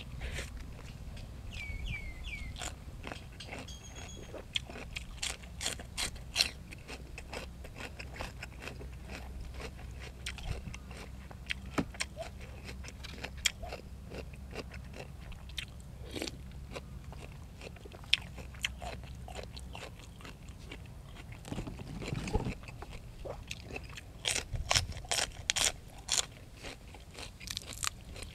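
Close-up eating sounds: fresh raw vegetables crunched and chewed along with rice noodles in curry sauce. A stream of sharp crunches runs throughout and comes thickest near the end.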